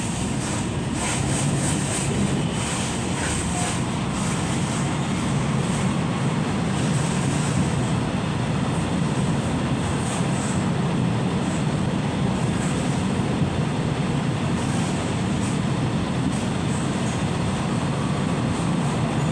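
Steady running noise of a passenger train heard from inside the carriage: a continuous low rumble of wheels on rails, with a few faint light ticks.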